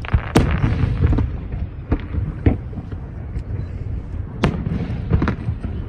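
Aerial fireworks bursting: about half a dozen sharp bangs at uneven intervals over a steady low rumble of further explosions.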